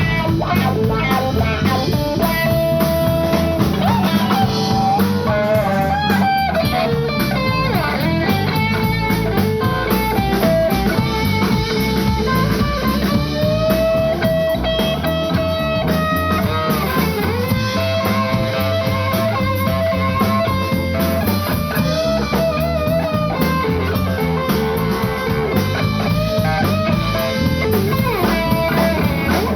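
Live blues-rock band playing: electric guitar carrying held, bending notes over drum kit and bass.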